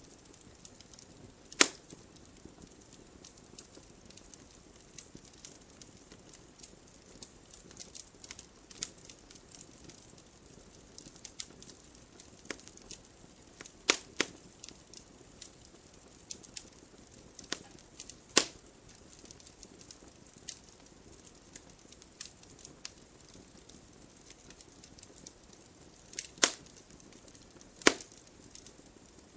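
Wood fire crackling: a soft hiss with scattered sharp pops and snaps, a handful of louder cracks standing out among many small ticks.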